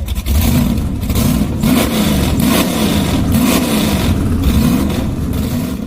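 Car engine revving again and again, its pitch rising and falling in quick swells.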